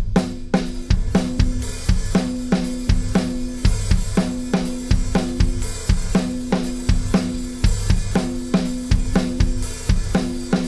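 Acoustic drum kit playing a steady groove, its kick and snare heavily compressed by a FET compressor in all-buttons-in style 'boom' mode, blended with the dry drums. A slow attack and fast release give the hits a pumping feel, and each drum hit rings on briefly.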